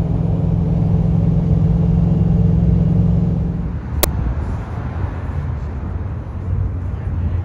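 Vehicle engine running with a deep, steady rumble that shifts in tone a little under four seconds in, with a single sharp crack about four seconds in.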